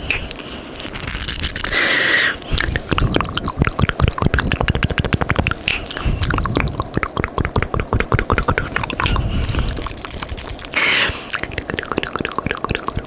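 Rapid, wet ASMR mouth sounds close to the microphone: a quick string of tongue clicks and smacks, broken twice by a short hiss, about two seconds in and again near the end.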